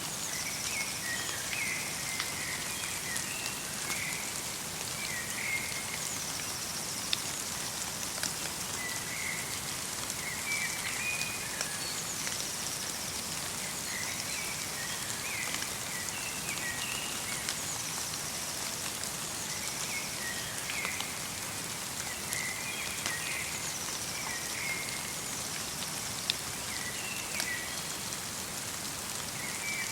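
Light rain with wet snow falling steadily in a forest, a constant soft hiss with single drops ticking now and then. A small songbird sings short chirping phrases over it, repeating every two seconds or so.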